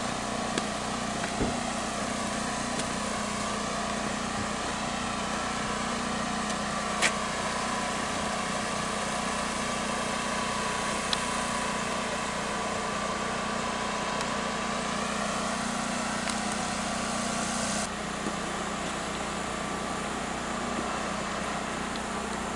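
Vehicle engine running steadily at low speed over rough, washed-out road, heard from inside the vehicle: a constant low hum under road hiss, with a single sharp knock about a third of the way in. The hiss drops off near the end.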